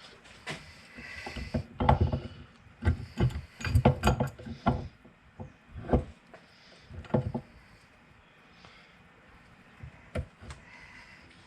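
Welded Miata differential carrier being slid and seated into its cast housing: an irregular run of heavy metal clunks and knocks, thickest in the first half, with one more knock near the end.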